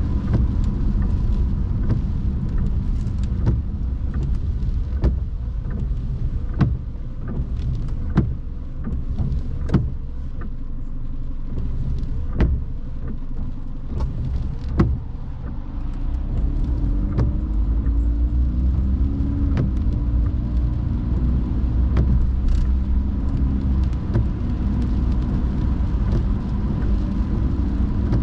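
Steady road and engine rumble inside a car driving in the rain. Through the first half, windshield wipers click about every second and a half.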